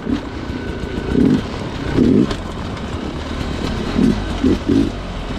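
Sherco two-stroke dirt bike engine idling, with several short louder bursts in the middle and near the end.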